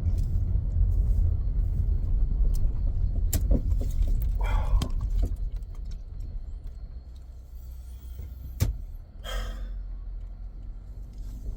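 Low road and engine rumble inside a moving vehicle's cabin, easing off about halfway through, with a single sharp click a little before the end.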